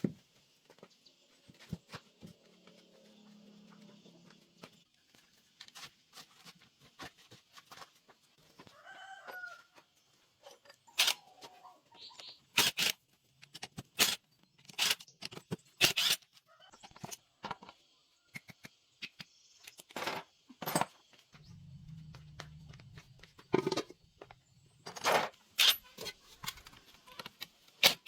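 A series of sharp knocks and clicks, with the strongest strokes coming irregularly from about a third of the way in, and chickens clucking in between.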